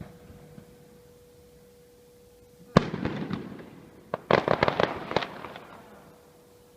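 Aerial fireworks: a shell bursts with a sharp bang about three seconds in, and a second later comes a rapid run of crackling pops that fades away. A faint steady tone runs underneath.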